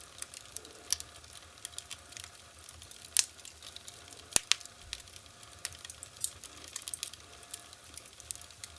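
Wood fire crackling in a fireplace: irregular sharp pops and snaps over a faint hiss, two of them louder about three and four and a half seconds in.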